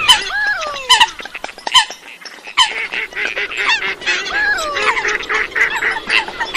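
A flock of waterbirds calling: many overlapping honking and squawking calls, with long falling whistles about half a second in and again about four seconds in, and a short lull around two seconds.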